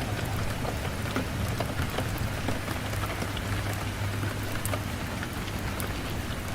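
Steady rain falling, with scattered sharp ticks of drops over a steady low rumble.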